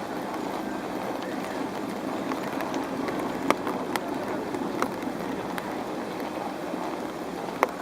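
Inspector Alert Geiger counter clicking irregularly at the slow rate of natural background radiation: a few sharp single clicks, spaced about half a second to three seconds apart, over steady outdoor ambient noise.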